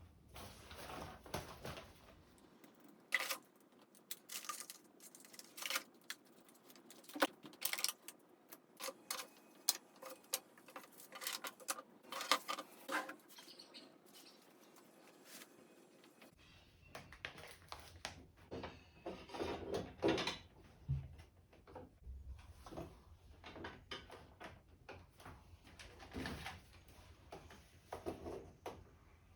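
Light clicks and knocks of small items being handled and set down, irregular throughout.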